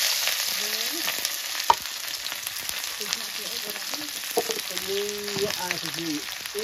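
Food frying in a hot pan: a steady sizzle with scattered crackles and clicks.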